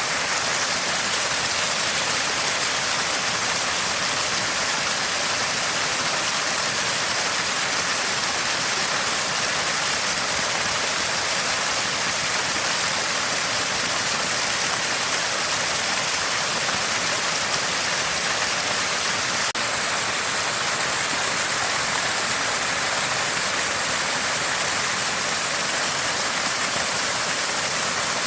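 Water gushing from a small spring, a steady, unbroken gurgling and splashing.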